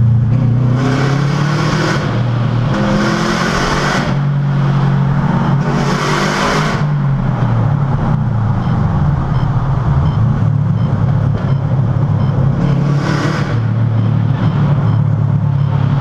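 2002 Subaru WRX's turbocharged flat-four with its electric exhaust cutout, heard from inside the cabin and echoing in a tunnel, pulling hard: engine pitch climbs with three loud hissing rushes in the first seven seconds or so, then falls away as it backs off. It settles to a steady drone, with one more short rush a little before the end.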